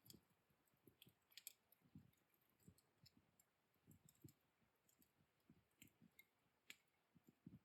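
Faint, sparse crackling of a burnt-down wood fire at the ember stage: scattered small pops and ticks, a few sharper ones around a second and a half in and near the end.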